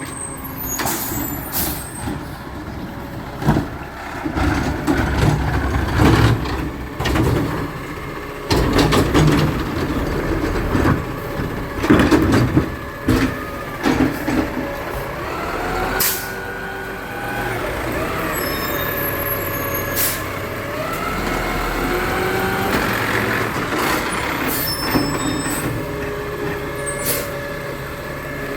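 Garbage truck at work: its diesel engine runs and revs, with repeated clanks and bangs through the first half.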